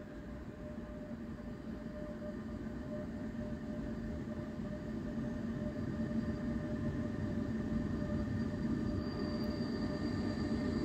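DB Cargo electric locomotive hauling a freight train approaches, its rumble growing steadily louder. A steady hum with a higher whine runs through it.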